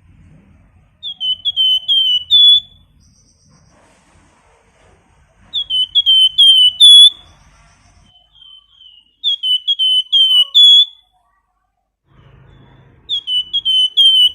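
A caged 'flamboyan' songbird calling in short bouts of four to six rapid, clear whistled notes, each note sliding down, the bout ending on a higher, slightly longer note; four bouts a few seconds apart. This is the 'nyiul' whistling call bird-keepers use as tutor song.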